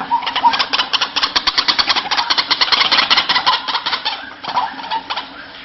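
White-breasted waterhen calling: a fast run of harsh, rasping pulses, about ten a second, that fades away about four seconds in, followed by a few short chirps.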